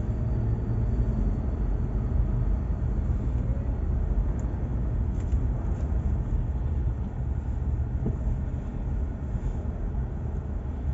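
Steady low rumble of a car driving, with engine and road noise heard from inside the cabin and a few faint ticks.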